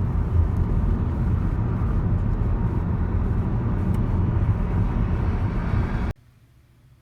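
Loud, steady, low rumbling noise with no clear tone, cutting off abruptly about six seconds in.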